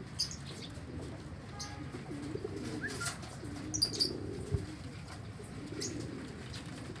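Pigeons cooing repeatedly in low, wavering phrases, with a few short high chirps from other birds and a soft thump about four and a half seconds in.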